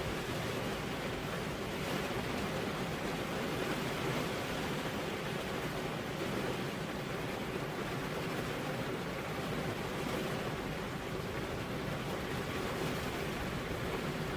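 Steady, even rain with no breaks or single drops standing out.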